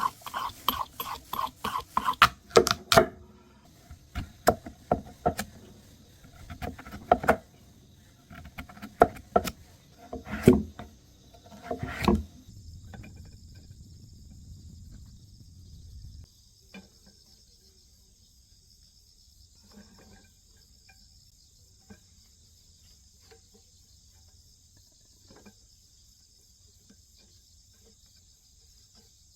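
A run of sharp knocks and clatters, mixed with short pitched sounds, over the first twelve seconds. Then insects, crickets by the sound, chirping in a steady high buzz, with a few faint ticks.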